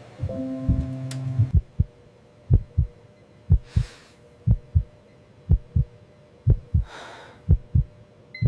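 Heartbeat sound effect: a slow double thump about once a second, with two soft breaths between the beats and a short electronic beep near the end. A low sustained tone sounds during the first second and a half.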